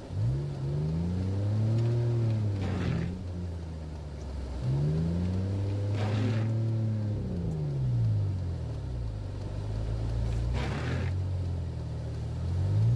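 Vehicle engine revving up and dropping back, about twice with a third rise near the end, under load as a vehicle stuck in deep snow is pulled out on a tow rope.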